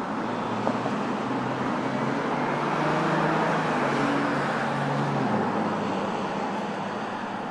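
A motor vehicle driving past on the road, its engine hum and tyre noise swelling and then fading, the engine hum dropping out about five seconds in.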